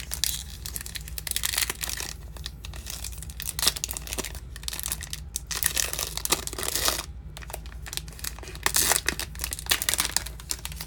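Trading cards from a Bowman's Best pack being handled, with irregular crinkling and rustling from the cards and wrapper.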